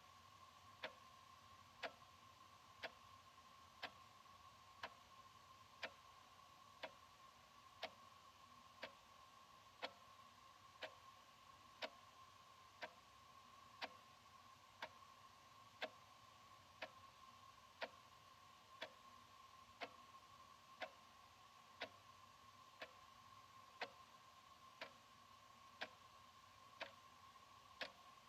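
Analog wall clock ticking steadily, about one tick a second, over a faint steady hum.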